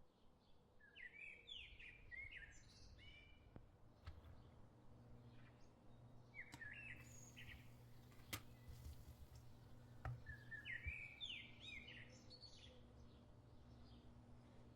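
Faint bird song: short chirping phrases that recur every four or five seconds, over a steady low hum, with a few faint clicks in between.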